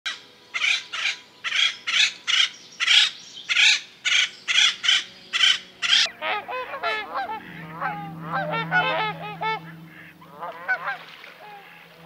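Birds calling: a harsh call repeated about twice a second, then from about six seconds in a dense chatter of short sliding calls over a low steady hum, thinning out near the end.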